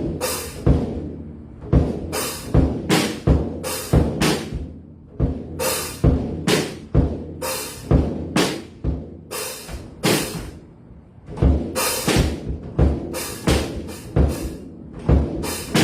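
Acoustic drum kit played loosely and unevenly, with ringing cymbal crashes over bass drum and snare hits, about one to two loud strikes a second.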